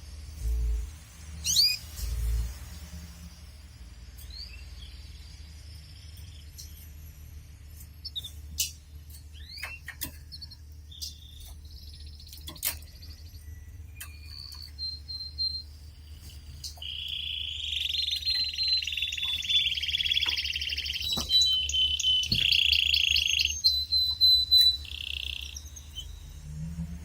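Male canary giving short scattered chirps, then a loud, sustained trilling song for several seconds in the second half. Two dull low thumps sound near the start.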